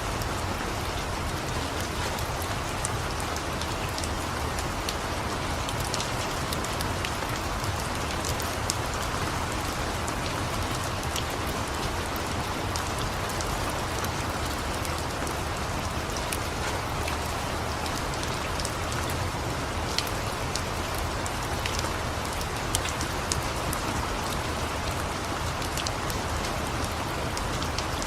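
Steady rain falling, with scattered sharp crackles from a wood fire mixed in.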